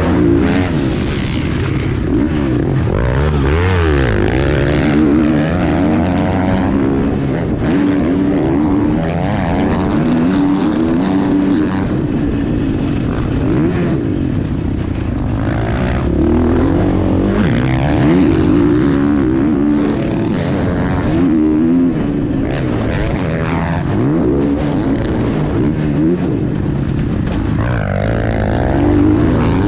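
Dirt bike engines revving hard, their pitch rising and falling as the bikes accelerate, shift and pass.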